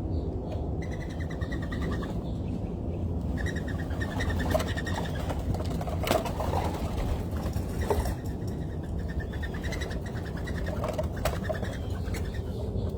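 Birds calling at a feeder: several short runs of rapid high chirps, with some lower calls in between, over a steady low background rumble.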